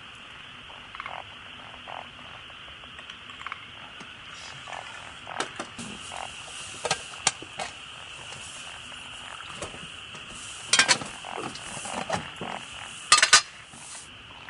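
A steady chorus of frogs calling, with scattered clicks and knocks. Two louder, rapidly pulsed calls or clatters come near the end.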